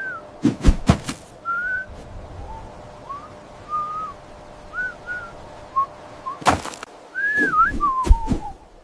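A string of short whistled notes that glide up and down, interrupted by several sharp knocks.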